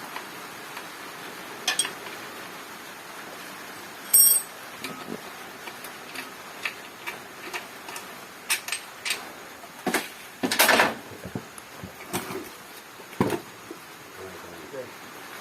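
Scattered clinks and clicks of metal hand tools and engine parts being handled during engine work. There is one sharp ringing clink about four seconds in, and a denser run of knocks and a short rattle around ten to eleven seconds.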